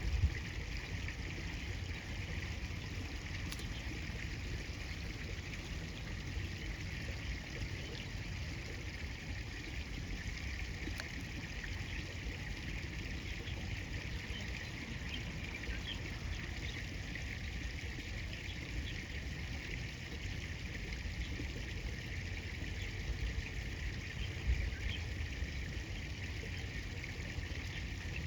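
River water flowing and trickling steadily, with a low rumble underneath.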